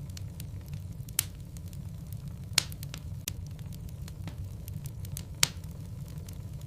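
Wood logs burning in a fireplace: a steady low rumble of the fire with scattered small crackles and three louder pops.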